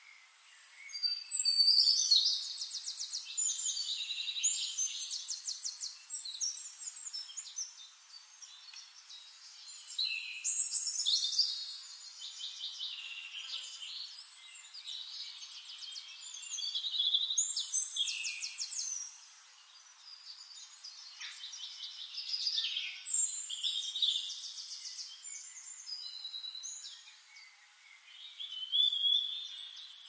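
A songbird singing: repeated phrases of rapid, high-pitched trills and warbles, about five in a row, each lasting a few seconds with short pauses between.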